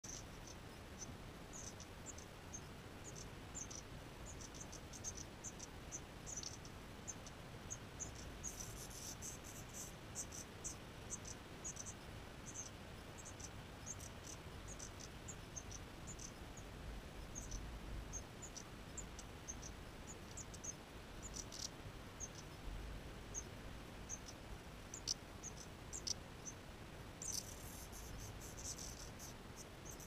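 Small birds giving short, high-pitched chirps, many in quick irregular succession, thickening into a denser flurry about nine seconds in and again near the end. A faint low rumble sits beneath them.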